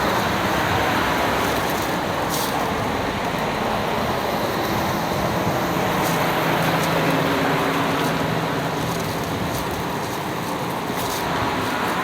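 Steady rushing noise like road traffic, with a faint low engine hum for a few seconds about halfway through.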